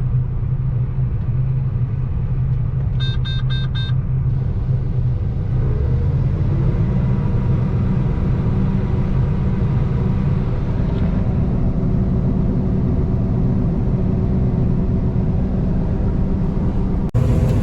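Combine harvester running steadily under load, a low drone of engine and threshing machinery heard from inside the cab. About three seconds in there is a quick series of four short electronic beeps, like a cab warning or monitor alarm.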